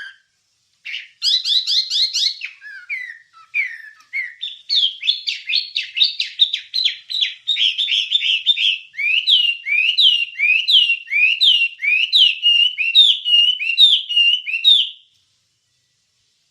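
Wambie songbird singing a long, rapid song of whistled notes: a quick trill about a second in, then a fast run of notes several a second, settling into a string of rising-then-falling notes about two a second that stops about 15 seconds in.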